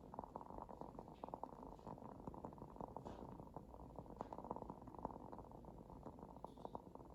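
Wood-wick candle crackling softly: a steady run of tiny irregular pops, with a faint short high squeak near the end.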